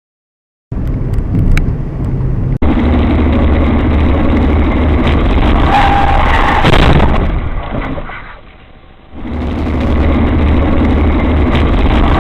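Car driving noise from inside the vehicle: steady engine and road rumble. It starts abruptly after a moment of silence, is interrupted by a sudden cut about two and a half seconds in, and dips briefly around eight seconds.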